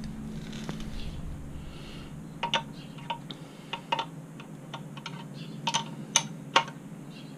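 Irregular sharp metallic clicks and clinks of a wrench turning a motorcycle's chain adjuster bolt by a quarter turn.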